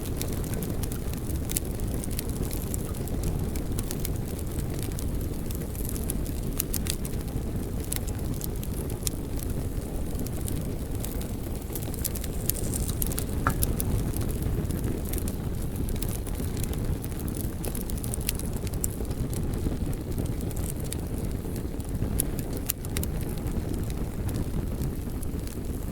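Fire burning in an indoor fireplace: a steady low rush of flames with frequent sharp crackles and pops scattered throughout.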